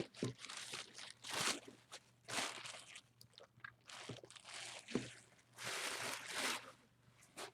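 Gift packaging being unwrapped by hand: irregular crinkling and rustling bursts, with a couple of small clicks.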